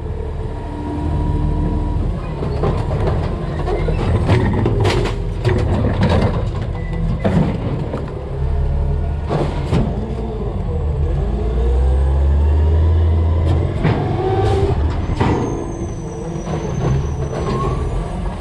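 Garbage truck working a collection stop: its CNG engine running, swelling louder for a couple of seconds around the middle, while garbage repeatedly clatters and bangs into the hopper.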